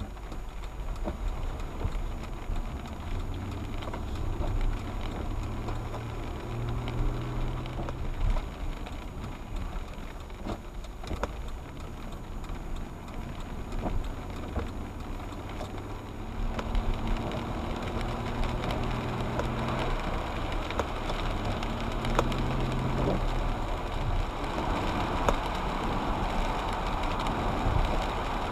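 A car driving, heard from inside the cabin: steady engine hum and tyre noise, with the engine note rising and falling twice, and scattered sharp ticks. The road noise grows louder near the end.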